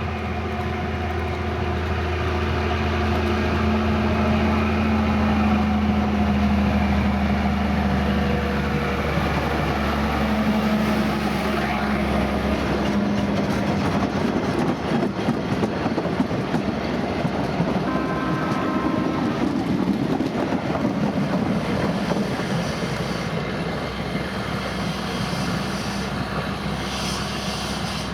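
Narrow-gauge diesel locomotive Caernarfon Castle passing with a works train: a low engine drone at first, then the rumbling clatter of the loaded wagons' wheels on the rails as they go by. A brief high tone sounds about 18 seconds in.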